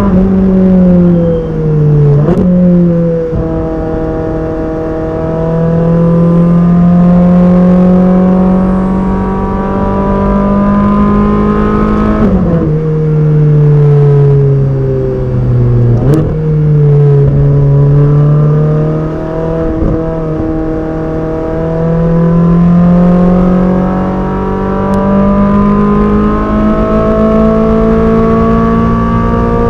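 Ferrari 458 Speciale's naturally aspirated 4.5-litre V8 pulling through the gears. The engine note climbs steadily, then drops sharply at gear changes about two, twelve and sixteen seconds in. Between about twelve and sixteen seconds the revs sink, as the car eases off.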